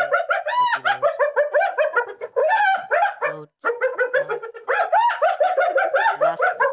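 Spotted hyena giggling: fast runs of short, high-pitched notes that rise and fall, several a second, with a brief break a little past halfway.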